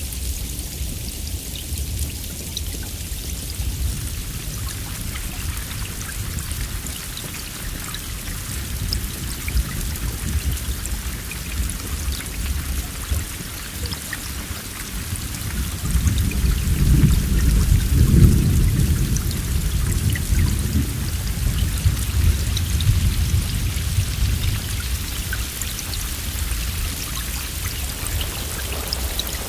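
Steady heavy rain hissing with scattered drop ticks. About halfway through, a long low roll of thunder builds, peaks and slowly fades over several seconds.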